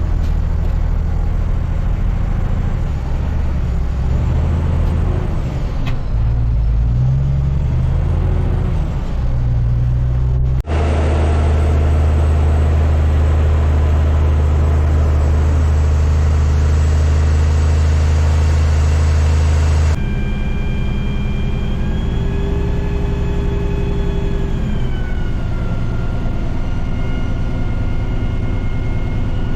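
Heavy truck's diesel engine running, in three edited pieces. In the first the pitch shifts, in the middle it holds a strong steady low drone, and in the last a high whine rides over the engine and slides down partway through.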